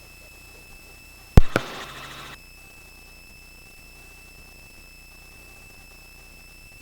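Helicopter intercom audio: a loud sharp click, a second click right after, then a short burst of hissy crackle that cuts off abruptly, over a faint steady high-pitched electronic whine.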